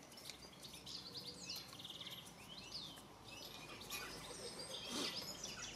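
Songbirds chirping and singing, many short quick calls overlapping one another, with one brief knock about five seconds in.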